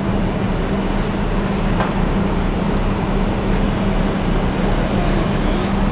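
Heavy machinery engine running steadily at a constant speed, a low even hum.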